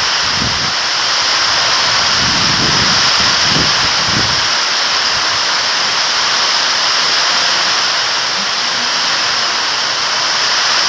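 Heavy rain pouring down in a steady, loud hiss, with some low irregular rumbling during the first four seconds.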